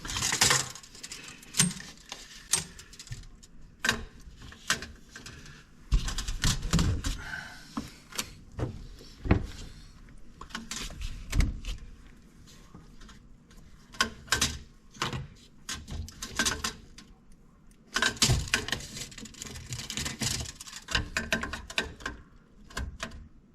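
Hand work on a drain line: irregular clicks, knocks, rattles and short scrapes of tools and pipe fittings being handled, with a busier cluster starting about three-quarters of the way through.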